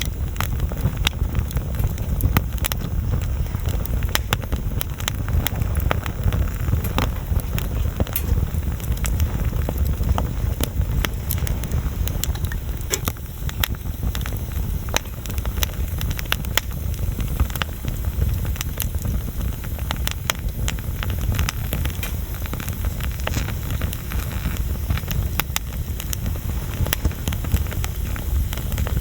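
Wood bonfire burning, with frequent irregular sharp crackles and pops over a steady low rumble.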